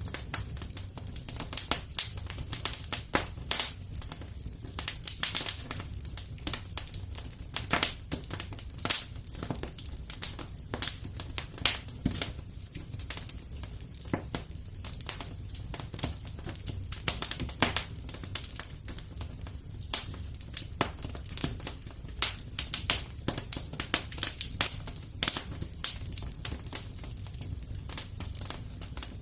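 Wood fire crackling in a fireplace: dense, irregular pops and snaps over a steady low rumble of flames.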